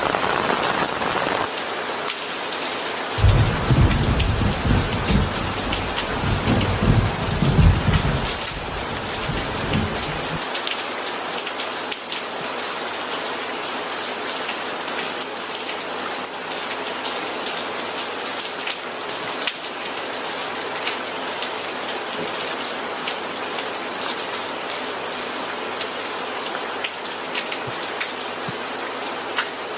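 Steady rain falling. A low rumble of thunder starts about three seconds in and rolls for about seven seconds before dying away.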